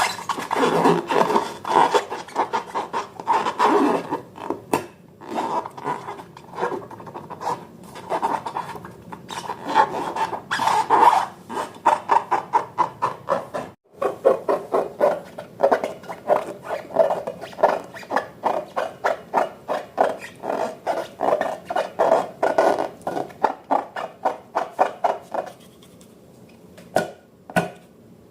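Repeated rubbing and scraping strokes from slime being mixed by hand, about two to three strokes a second, stopping shortly before the end.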